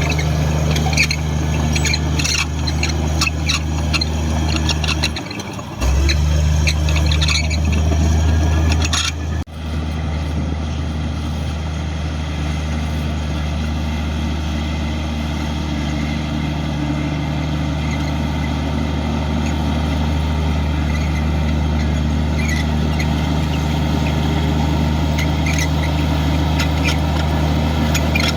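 Komatsu D58 bulldozer's diesel engine running in a steady low drone, with high squeaks and clicks over the first ten seconds. The engine dips briefly about five seconds in, runs louder for a few seconds, then drops back sharply near ten seconds and runs on steadily.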